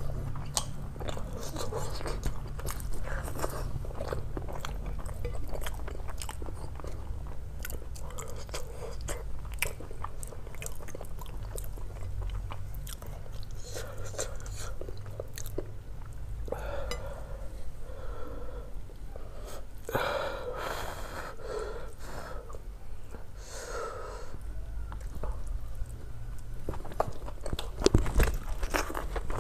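A person chewing and smacking with the mouth while eating rice and curry by hand, with many small clicks and a few short breathy mouth sounds.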